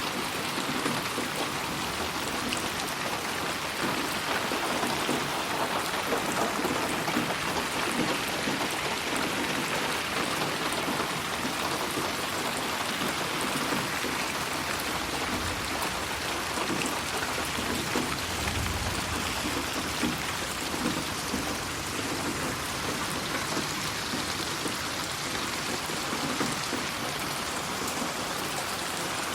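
Steady rain falling and pattering on surfaces, mixed as 8D audio. A brief low rumble comes about two-thirds of the way through.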